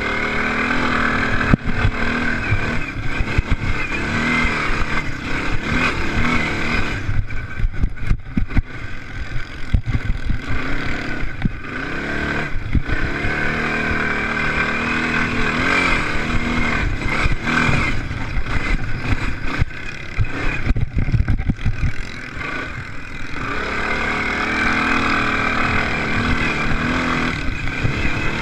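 Motocross racing engines revving hard, their pitch repeatedly rising and falling as they accelerate and shift through a race.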